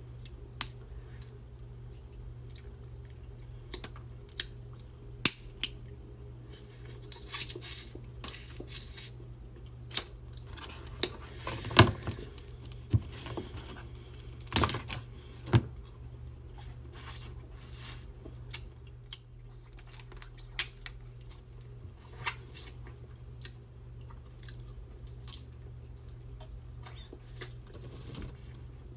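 Close-miked eating of a seafood boil: wet chewing with scattered sharp cracks, snaps and crackles of shells being broken and peeled, the loudest crack about twelve seconds in, over a steady low hum.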